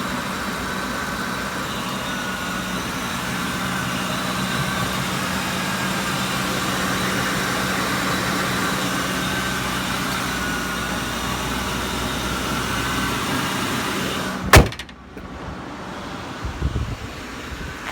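Motorcycle engine running steadily, then a single sharp, loud click near the end, after which the engine sound falls away to a quieter hiss.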